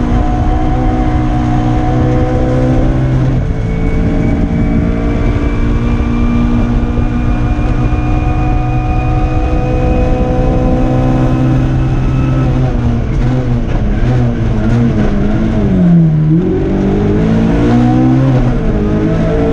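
Nissan Micra kit car's engine revving hard under full load, heard from inside the cockpit. Its pitch climbs slowly through a long pull, with a short break about three and a half seconds in. It then wavers and drops to a low about sixteen seconds in before climbing again.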